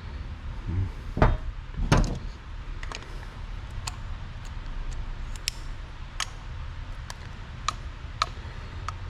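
Tools and small metal carburetor parts being handled on a workbench as the carburetor is taken apart: two knocks, a little over a second in and again about two seconds in, then scattered light clicks and clinks.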